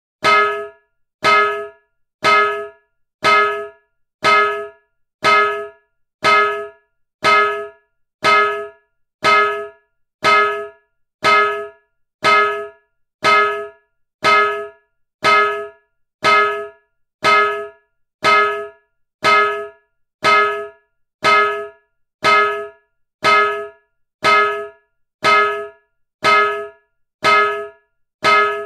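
A piece of metal struck with a clang about once a second in a steady, even rhythm. Each hit rings briefly with a few clear tones and dies away before the next.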